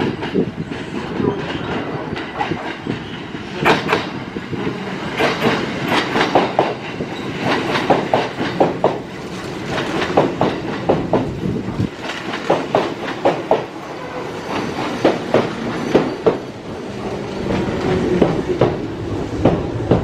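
Electric commuter train running along the track, its wheels clacking repeatedly over rail joints and points against a steady rumble.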